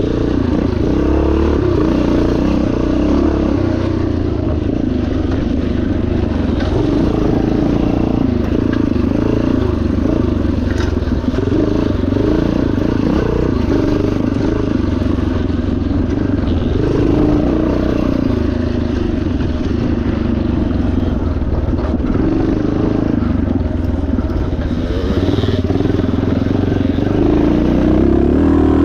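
1977 Yamaha TT500's single-cylinder four-stroke engine running hard while being ridden off-road, its pitch rising and falling with the throttle.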